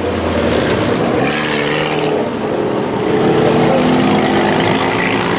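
Engines of four-cylinder sport compact race cars running at slow speed under caution, a steady drone with one engine revving up about a second in.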